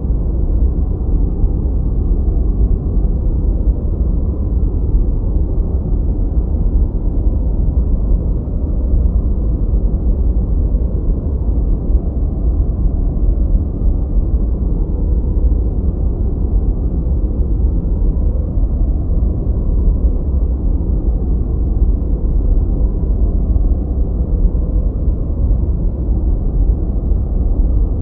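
Continuous noise-generator track sold as white noise, steady and unchanging, dark and deep, with most of its weight in the lows and almost no high hiss.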